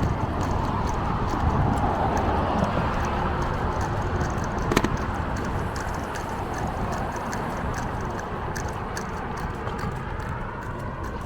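Bicycle in motion: a steady rush of tyre, road and wind noise with many small clicks and rattles, and one sharper click about five seconds in.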